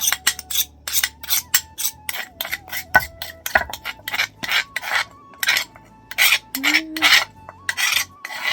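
Garlic and chillies being ground by hand, with quick, even rhythmic strokes about three a second.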